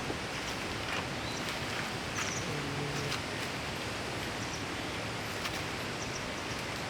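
Steady outdoor ambient noise with a few short, faint, high chirps scattered through it and a brief low hum about two and a half seconds in.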